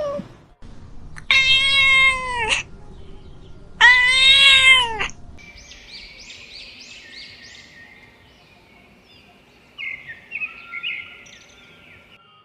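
Domestic cat meowing twice, two loud drawn-out meows a little over a second apart, each rising then falling in pitch. Fainter short high calls follow, four in quick succession and a few more near the end.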